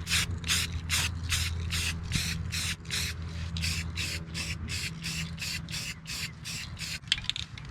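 Aerosol can of Rust-Oleum Rusty Metal Primer worked in a rapid, even run of short strokes, about three to four a second, stopping near the end. A steady low hum runs underneath.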